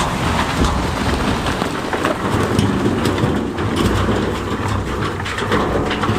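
Heavy machinery moving big stone: a dense, continuous clatter of rocks knocking and sliding over a steady low diesel rumble.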